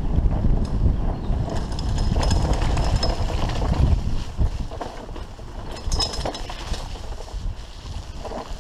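Bicycle rattling and rumbling over a rough forest trail, with brief high squeaks about two seconds in and again about six seconds in.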